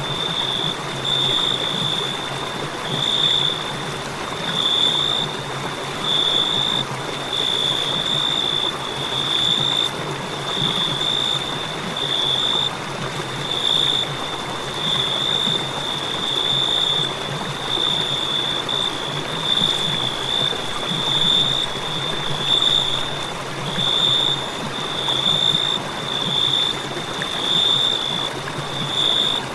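Crickets chirping continuously, a high-pitched tone pulsing in short, even chirps, over a steady hiss of background noise.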